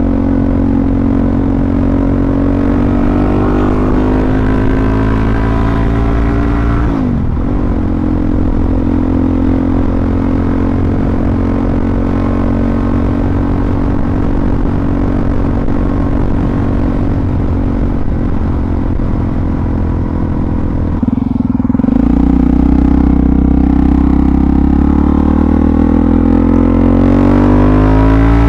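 Suzuki DR-Z400SM's single-cylinder four-stroke engine under way. The revs climb, dip sharply about seven seconds in, hold steady, then climb again from about twenty-two seconds in until the end.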